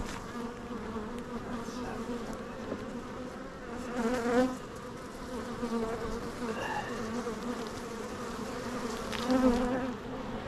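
Honeybees buzzing around an opened hive: a steady, wavering hum that briefly grows louder as bees fly close, about four seconds in and again near the end.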